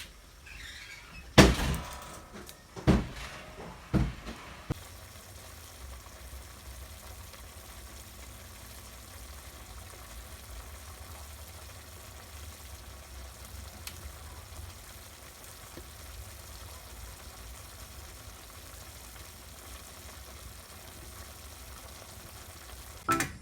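Three loud thumps, each a second or so apart, in the first four seconds, then a steady low hum of background noise.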